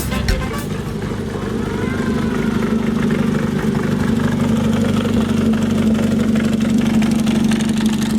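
Car engine idling with a steady, even drone as a car rolls slowly past.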